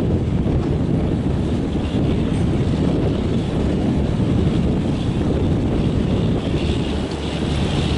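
Steady low rumble of a train running past, with wind buffeting the microphone.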